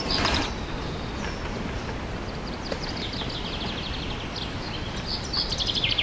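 Songbirds singing in forest: fast trills of rapidly repeated high notes, once in the middle and again, louder, near the end, over a steady rushing noise. A brief burst of noise at the very start.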